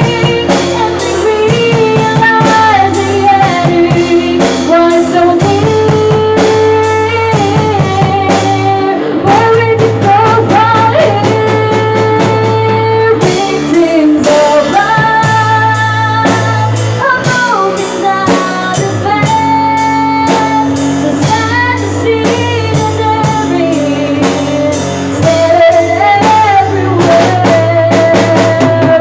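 A live band playing a slow rock ballad: a sung melody over drum kit, guitar and bass, with long held notes.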